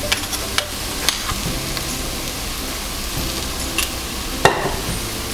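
Onion and spice masala sizzling in oil in a hot clay pot (chatti), a steady frying hiss with occasional small crackles. A sharper knock comes near the end.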